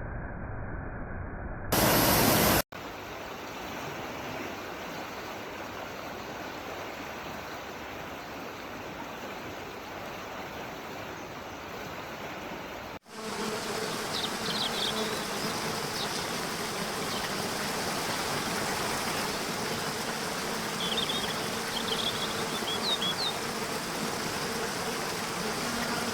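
Outdoor nature ambience: a steady rushing hiss like flowing water, changing suddenly at edits, with a brief loud rushing burst about two seconds in. In the second half, short high chirps come and go over a faint steady hum.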